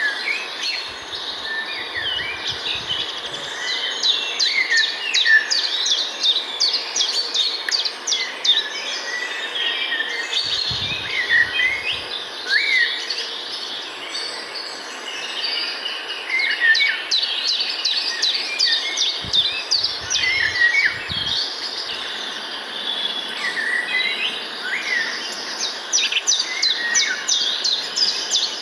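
Several birds singing and calling at once: rapid high chirps and trills mixed with short whistled notes, over a steady outdoor hiss. A few brief low rumbles come and go underneath.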